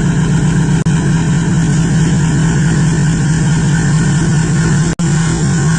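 WDG6G diesel locomotive's 16-cylinder engine running with a steady, wavering low drone. The sound drops out very briefly twice.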